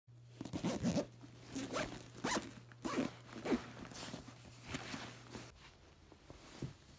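A zipper pulled several times in short rasping strokes, over a steady low hum that stops about five and a half seconds in.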